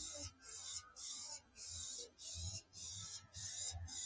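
Aerosol spray-paint can hissing in a run of short bursts, about two a second, as paint is sprayed on in quick passes.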